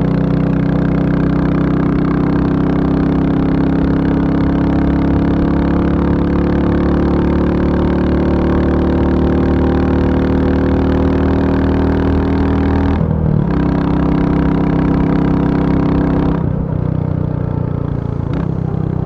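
Royal Enfield Bullet 350's single-cylinder engine running steadily. There is a brief break about two-thirds of the way in, and the sound gets quieter and duller near the end.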